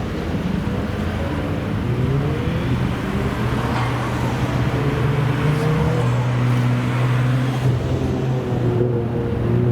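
Car engine running and revving, its pitch rising in a couple of climbs before holding steady.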